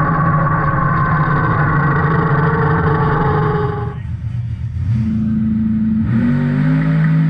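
1988 Mustang drag car's engine at full throttle, heard from inside the car during a pass, with one tone climbing in pitch. It cuts off abruptly about four seconds in. About a second later, background music with held guitar-like notes comes in.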